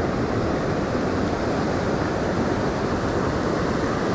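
Steady rushing of river current, an even wash of water noise that does not change.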